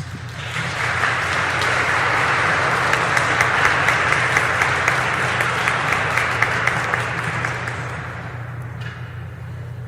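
Audience applauding. The clapping swells within the first second, holds, and dies away over the last two seconds.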